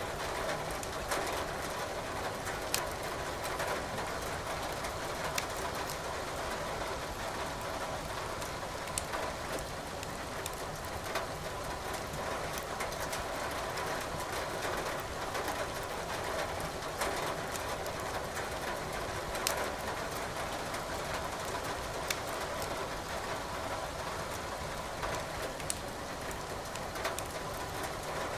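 Burning firewood crackling with irregular sharp pops over a steady rush of rain.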